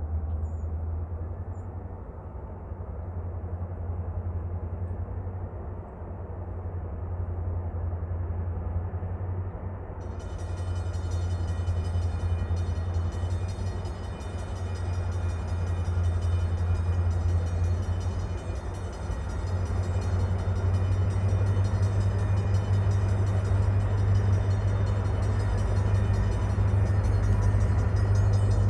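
Diesel freight train led by EMD SD40-2 and GP38-2 locomotives approaching. Its low engine rumble grows steadily louder.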